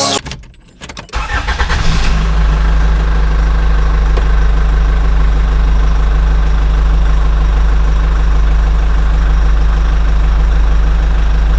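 Tractor engine starting about a second in, then running steadily at idle with a deep, even hum.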